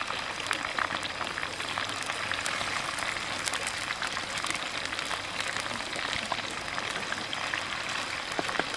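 Chicken wings frying in hot oil in a wok: a steady sizzle with frequent small pops and crackles.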